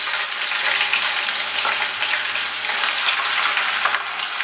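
Shredded chicken sizzling loudly as it is dropped into hot oil, the sizzle starting suddenly and carrying on steadily.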